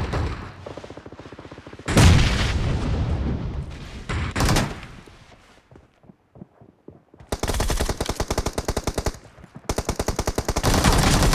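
Automatic gunfire in a first-person shooter video game, in rapid bursts. There is a lull about two-thirds of the way through, then long sustained bursts of rapid fire near the end.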